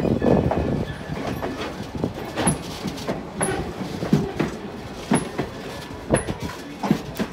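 Excursion train rolling past, its wheels clacking over rail joints in sharp knocks about once a second.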